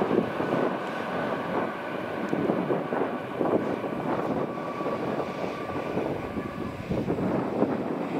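Spanish high-speed electric train running along a curve, a steady rumble of wheels on rail with a faint steady whine.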